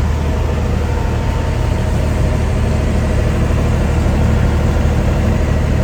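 An engine running steadily at idle, a loud low hum with a faint, steady, mid-pitched drone above it.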